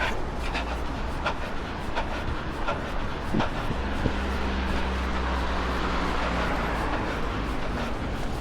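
A runner's footsteps in an even rhythm over street traffic and wind noise. A motor vehicle's low steady hum comes in about three and a half seconds in and fades near the end.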